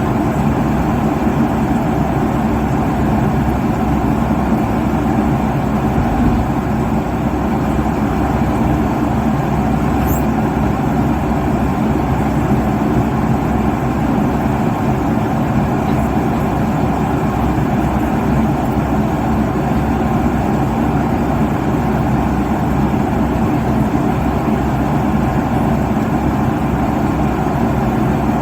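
Steady cabin noise inside a jet airliner cruising at altitude: a constant rush of engine and airflow noise, strongest in the low and middle range, with a faint low hum running through it.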